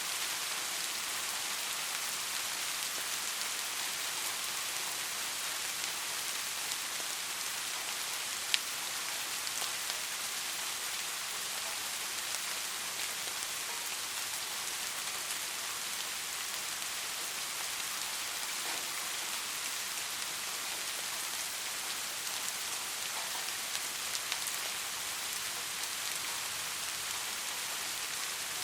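Steady soft rain falling, an even hiss with scattered raindrop ticks and one sharper drop tap about eight seconds in.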